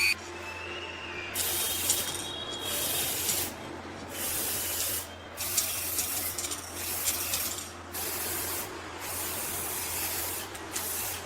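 Spray painting in repeated bursts: a hiss that starts and stops about six times, each burst lasting from under a second to a couple of seconds.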